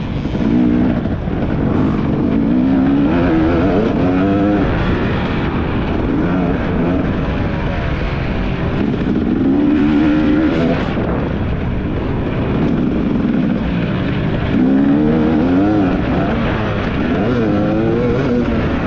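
Dirt bike engine revving, its pitch rising and falling again and again as the throttle is worked through the gears.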